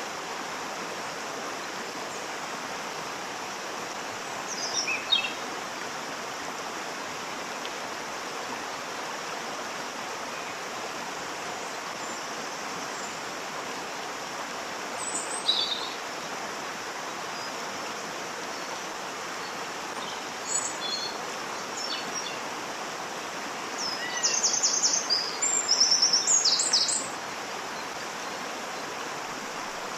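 Waterfall running steadily, with birds calling over it: short calls about five and fifteen seconds in, a few near twenty-one seconds, and a quick run of chirps a few seconds before the end.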